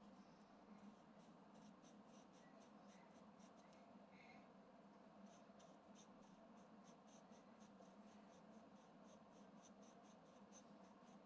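Faint scratching of a coloring tool stroking back and forth on paper, quick strokes about three a second, over a low room hum.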